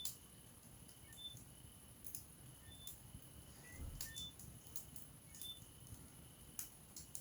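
Wood fire in a fireplace crackling: irregular sharp pops and snaps over a low rumble of flames, the loudest pop at the very start and another about six and a half seconds in. A faint short high chirp repeats about every second and a half.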